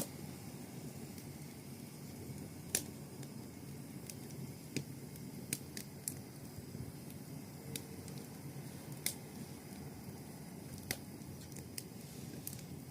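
Wood fire burning with a steady low rush and about a dozen irregular sharp crackling pops.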